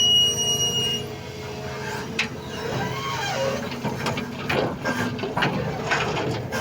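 Doosan 220 hydraulic excavator working, its engine running steadily under a clatter of scattered knocks. A brief high-pitched squeal sounds in the first second.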